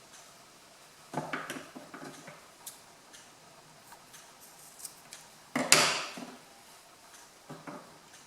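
A few scattered knocks and clatters of objects being handled on a hard surface, with a cluster about a second in and the loudest, sharpest knock about two-thirds of the way through.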